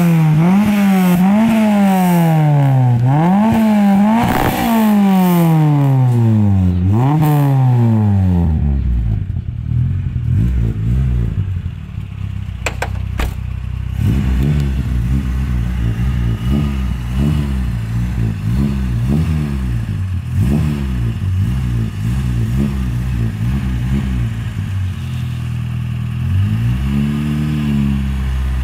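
Renault 19's engine blipped repeatedly through a tuned exhaust, pitch rising and falling in quick revs, then dropping to idle about eight seconds in. It idles with a few small blips and revs once more near the end.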